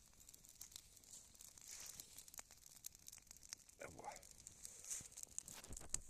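Faint scattered crackles and a soft hiss from a damp, smouldering campfire of wet weeds. A short gliding squeak sounds about two-thirds of the way through.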